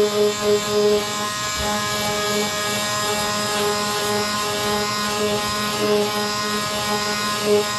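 Power sander running steadily against a motorcycle's scratched bodywork, a constant motor hum under a grinding hiss.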